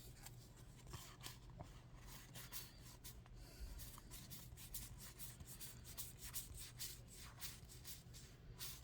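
Faint rustling and scraping of Yu-Gi-Oh! trading cards being handled and slid against one another, in many short, irregular strokes over a low steady hum.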